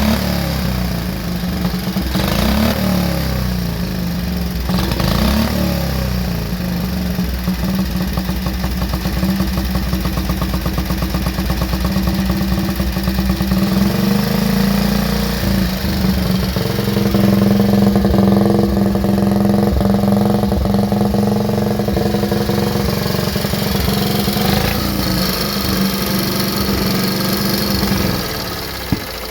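Motorcycle engine running at a fairly steady speed, with small rises and falls in revs. It gets quieter about a second before the end, and there is a single sharp click.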